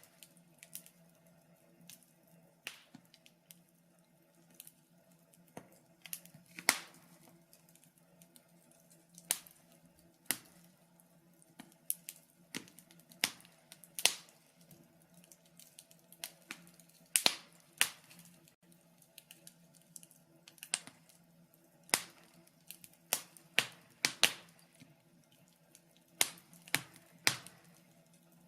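Wood fire crackling in a fireplace: irregular sharp pops and snaps, one or two a second and sometimes in quick clusters, over a faint steady low hum.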